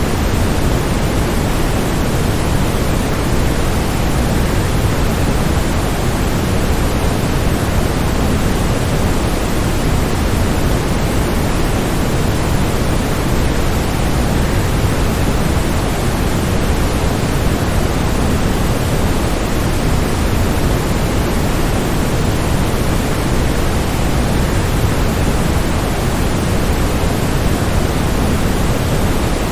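Waterfall: a steady, even rush of falling water, heaviest in the low range and unchanging.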